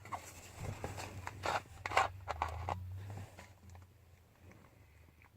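A run of close handling sounds, short scrapes and rustles, over a faint low steady hum. The handling dies down after about three and a half seconds.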